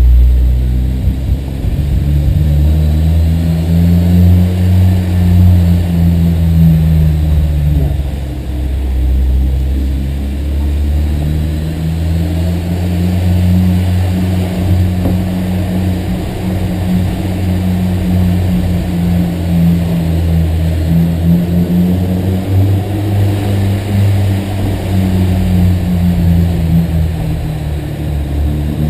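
Honda S2000's four-cylinder engine driving under load, its pitch rising and falling several times as it accelerates and eases off. This is a road test after new spark plugs were fitted for a misfire.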